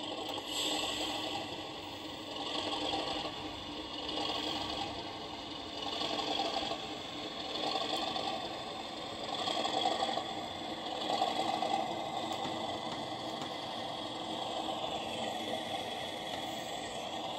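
Sound decoder of an Accurascale Class 37 model locomotive playing its diesel engine sound through the model's small speaker: a steady, rattling engine note that swells every few seconds.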